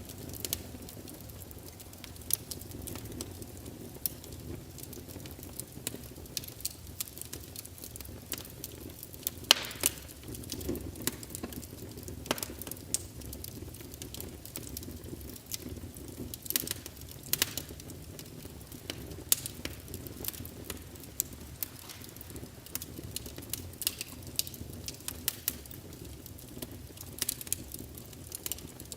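Wood fire in a fireplace crackling, with irregular sharp pops and snaps over a low, steady rush of flame. The loudest pop comes about nine and a half seconds in.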